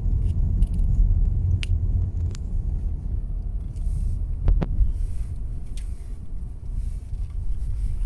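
A car's low engine and road rumble, heard from inside the cabin while driving, with a few short clicks.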